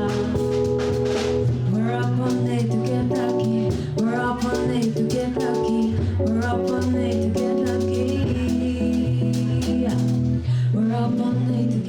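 Jazz quartet music: strummed acoustic guitar and a stepping bass line under a singing voice, with light percussion clicks.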